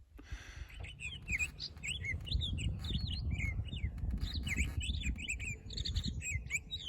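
Small birds chirping and twittering in many quick, short notes, several overlapping, over a low steady rumble.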